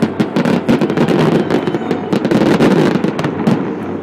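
Dense barrage of fireworks and firecrackers: many overlapping bangs and crackles that merge into a continuous rumble.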